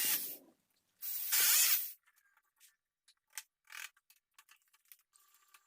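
Two short hissing scrapes, then light scattered clicks and knocks, as the wall cabinet is handled and lifted onto its French cleat.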